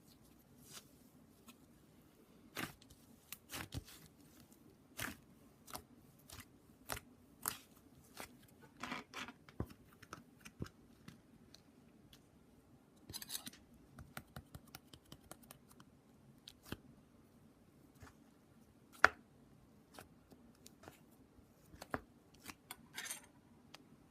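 Irregular crisp snips, clicks and rustles of close-up hand work, like scissors cutting paper, with one sharp click about three quarters of the way through.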